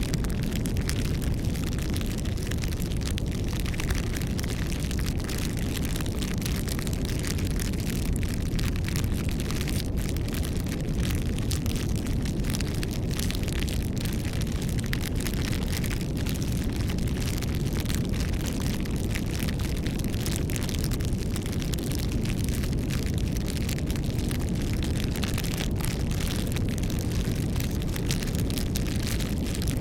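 Campfire burning: a steady low rumble of flames with frequent sharp crackles and pops of the burning wood scattered throughout.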